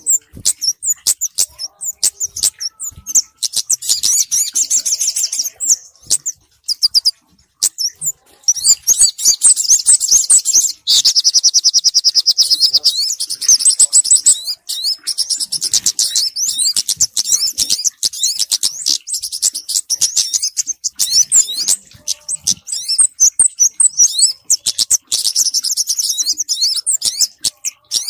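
Small-bird lure calls, kemade and sogok ontong calls combined: dense, rapid high-pitched chirps and fast trills with sharp clicks between them, and a long unbroken trill about a third of the way in.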